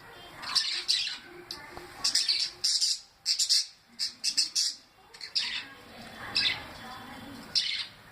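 Parrot squawking: a string of short, harsh screeching calls, several in quick succession, with brief gaps between the clusters.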